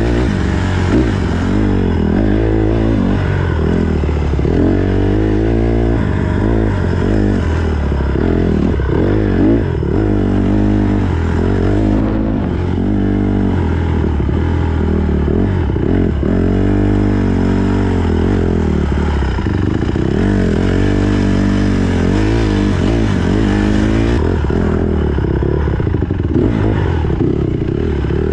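Honda CRF150R dirt bike's single-cylinder four-stroke engine being ridden hard on a trail, its pitch rising and falling continuously with throttle and gear changes.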